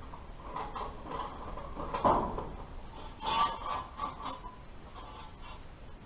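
Metal electrical conduit being handled against the floor and truck tire: a knock about two seconds in, then a run of light metallic clinks and rattles with a faint ring.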